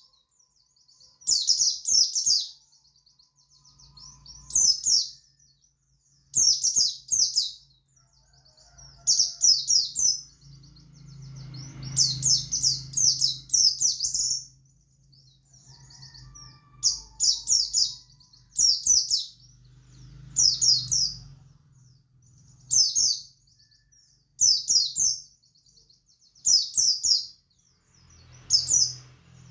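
Buxtoni white-eye (pleci) singing in short, high twittering phrases, one about every two seconds: the rapid 'ngalas' song used as a lure for caged white-eyes.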